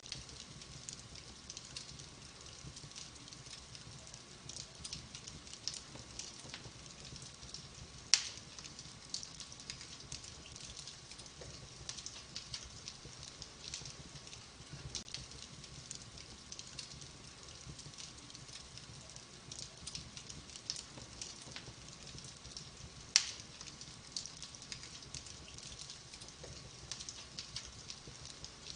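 Fire crackling in a fireplace: a steady run of small irregular crackles, with two much louder pops about 8 and 23 seconds in.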